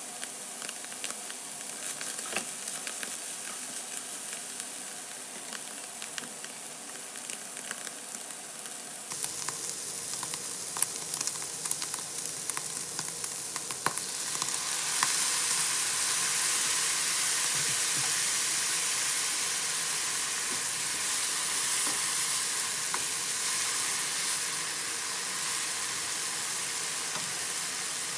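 Diced pig heart and onions sizzling in a hot nonstick frying pan, with scattered clicks of stirring. About halfway through, soy sauce poured into the pan makes the sizzle jump to a much louder hiss, which carries on steadily and eases slightly toward the end.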